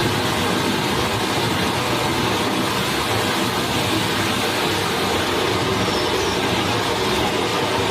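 Steady rushing of a forest stream, an even wash of water noise with no breaks.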